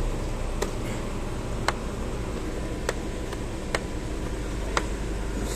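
Audi supercharged V6 engine idling steadily, with a sharp tick about once a second over the low hum.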